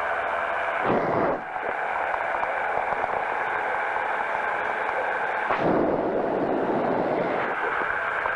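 Powered parachute engine and propeller droning steadily in flight, heard through the pilot's headset intercom with a narrow, radio-like tone. Two brief rushes of noise break in, about a second in and again past five seconds.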